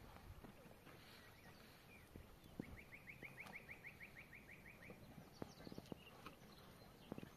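A bird trilling faintly: a run of about a dozen short rising notes, some six a second, lasting about two seconds. A few faint knocks are heard now and then.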